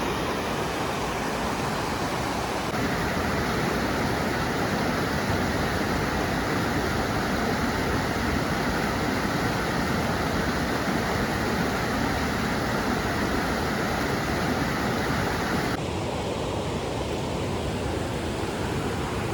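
Bridal Veil Falls: a steady rush of falling water. Its tone changes slightly about three seconds in and again near the end.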